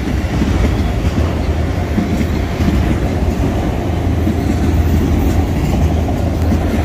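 BNSF freight train's autorack cars rolling past, steel wheels on the rails making a steady low rumble.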